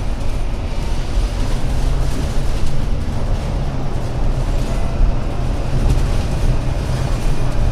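ADL Enviro500 MMC Euro 6 double-decker bus's diesel engine running with a steady low drone, mixed with general running noise.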